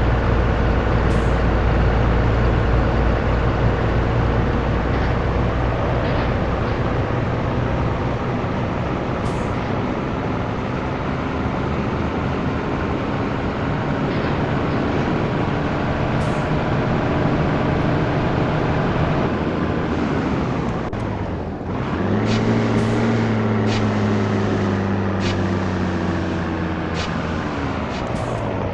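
Heavy truck's diesel engine running under load. About twenty seconds in, the revs fall away, as in a gear change, then pick up and climb steadily. Near the end the revs drop once more.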